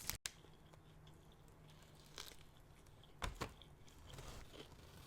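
Quiet biting and chewing of a Caesar wrap, with a few crisp crunches, the loudest a close pair a little past three seconds in.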